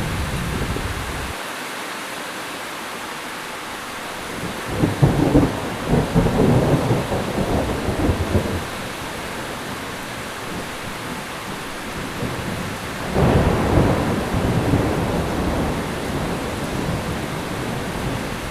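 Heavy rain falling steadily, with two rolls of thunder rumbling and crackling over it, the first about four seconds in and lasting several seconds, the second shorter, about two-thirds of the way through.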